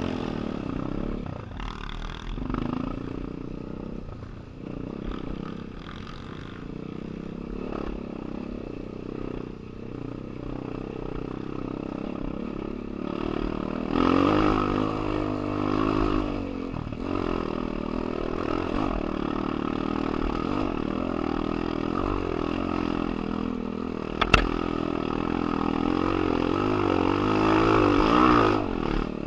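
Enduro motorcycle engine revving and labouring on an uphill climb, its pitch rising and falling with the throttle, louder in the second half. A sharp knock sounds about 24 seconds in.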